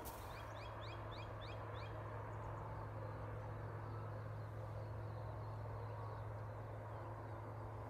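A bird calling a quick run of about eight short rising notes in the first two seconds, over a steady low hum that carries on throughout.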